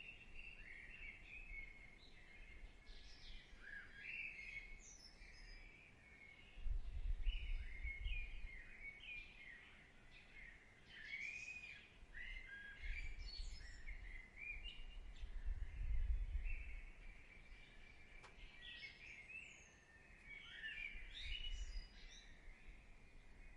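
Small songbirds chirping and warbling over a soft background hiss, with a low rumble swelling up several times and making the loudest moments.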